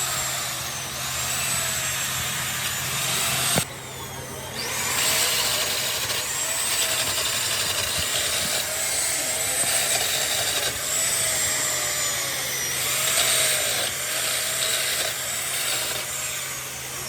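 Handheld electric power tool running with a motor whine whose pitch dips and recovers as it bears on the work. It cuts off suddenly a few seconds in, winds down for about a second, then starts up again.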